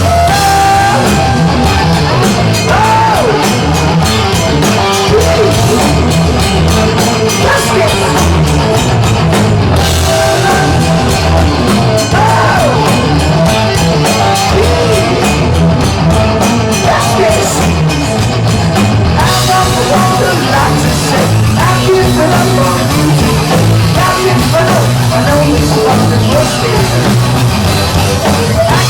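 Heavy rock band playing loud and live: drum kit, bass and electric guitar under a sung lead vocal.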